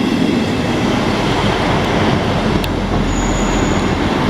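GWR Class 158 diesel multiple unit running on the track close by, a loud steady rumble of engine and wheels on rail, with a brief thin high squeal about three seconds in.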